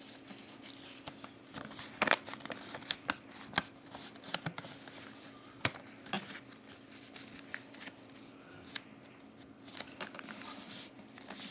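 Origami paper being folded and creased by hand: scattered crackles, rustles and taps of the stiff sheet.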